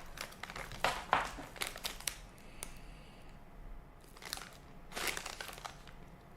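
Plastic snack wrapper crinkling in irregular bursts as it is handled, quieter for a second or two in the middle.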